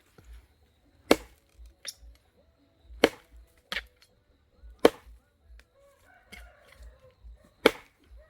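A billhook chopping into a dry log to split it in half for firewood: four hard chops about two seconds apart, with a couple of lighter knocks between them.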